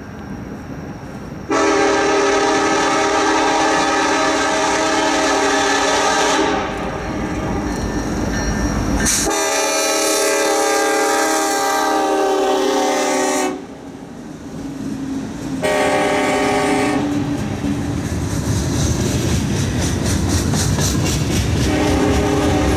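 Diesel locomotive horn sounding the grade-crossing signal: two long blasts, a short one, and a final long blast beginning near the end. Under it the passing train rumbles and its wheels clack on the rails.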